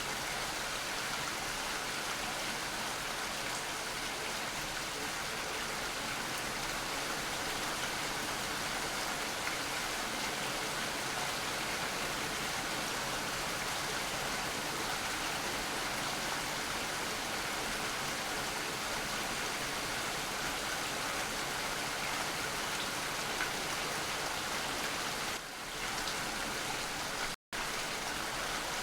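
Steady rain falling, an even dense hiss of drops. It dips briefly and then cuts out for a split second near the end before resuming.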